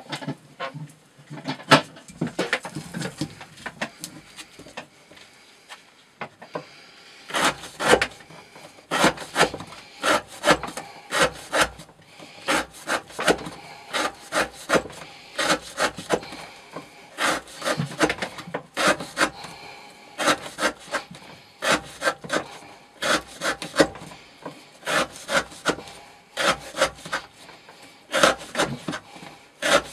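Knife blade cutting rope against a wooden board, stroke after stroke, in an edge wear-resistance test. The cuts are sparse at first, then from about seven seconds in come at about two a second, each a short rasping slice ending in a knock on the wood.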